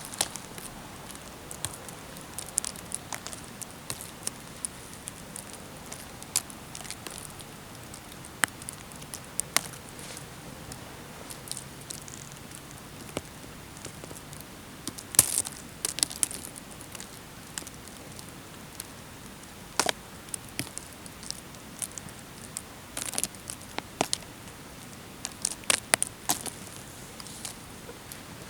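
Scattered crackles and snaps of dry twigs and leaf litter underfoot, coming in irregular clusters with quieter pauses, over a faint steady hiss.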